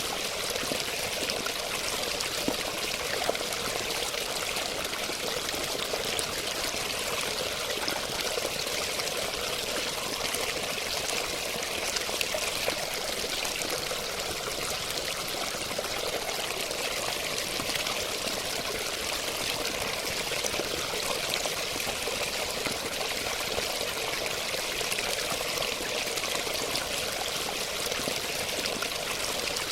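Running water: a steady, unbroken rush of flowing water with no change across the stretch.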